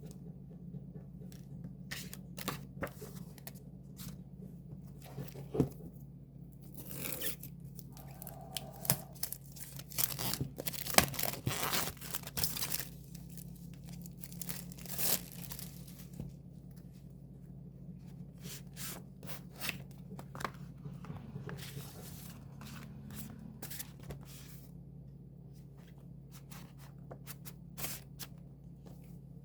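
Album packaging being torn open and crinkled by hand: irregular tearing, rustling and clicks of plastic wrap and paper, busiest in the middle, over a steady low hum.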